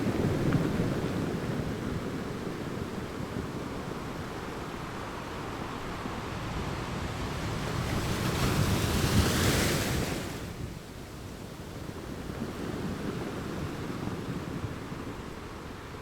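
Ocean waves breaking on a shore in a continuous wash, one larger wave building and crashing about nine seconds in, then falling away about a second later. Wind buffets the microphone throughout.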